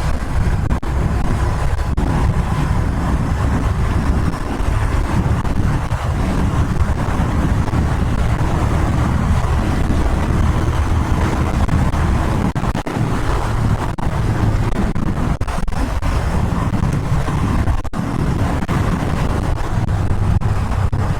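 Royal Enfield Interceptor 650's parallel-twin engine running through aftermarket exhausts at road speed, pitch wavering slightly as the throttle changes, with wind rushing over the microphone.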